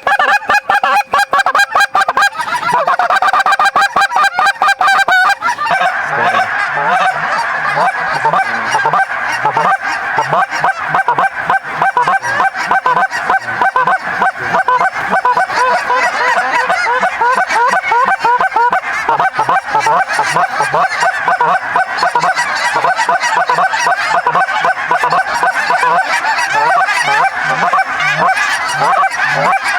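Large flock of lesser Canada and snow geese calling, a loud, dense chorus of many short, overlapping honks with no break. It starts suddenly and is most intense in the first few seconds.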